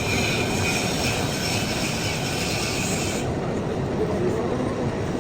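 Metal lathe turning a steel pulley blank, the cutting tool giving a high screech against the spinning metal. The screech stops about three seconds in while the machine keeps running.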